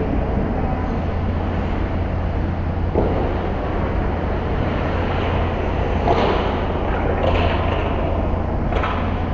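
Ice hockey arena ambience during play: a steady low hum and noise, with a sharp knock about three seconds in and a few more knocks and clatters near the end.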